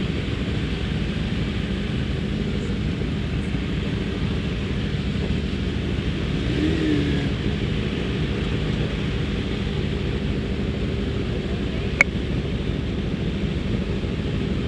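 Kawasaki ZX-10R superbike's inline-four engine at race pace, a dense, muffled, even rumble with little high end. There is a single sharp click about twelve seconds in.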